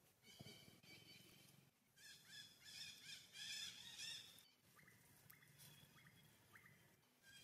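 Faint bird calls: a steady high-pitched call, a louder cluster of calls in the middle, then a few short chirps.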